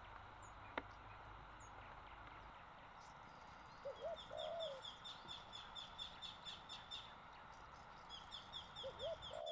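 Wild birds calling over a faint steady hiss. A short, low, warbling call comes about four seconds in and again near the end. Between them, a bird gives a rapid run of high chirps, about four a second, which pauses and starts again.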